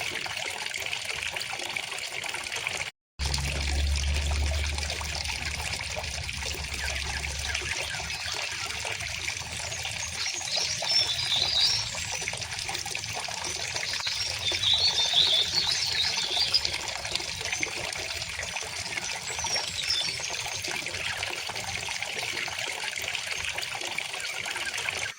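A river flowing steadily over stones, a bright trickling rush. Small birds sing in short bursts of chirps about ten seconds in and again around fifteen and twenty seconds. The sound cuts out completely for a moment about three seconds in, and a low hum runs for a few seconds after.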